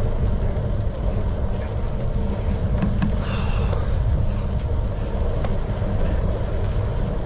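Steady wind rushing over the microphone of a moving bicycle, a continuous low buffeting noise.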